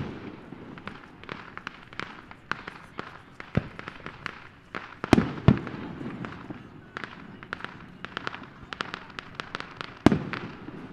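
Fireworks exploding: a loud bang at the start, then a steady stream of pops and crackles, two more big bangs about halfway through, and another loud bang near the end.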